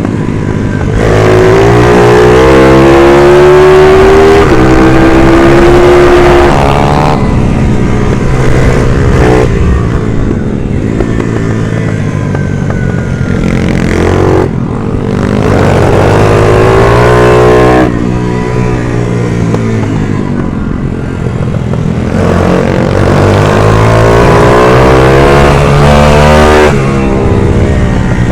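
Racing minibike engine of the Stock 140 class at high revs, its pitch climbing hard and then dropping back sharply several times as the throttle is opened and closed.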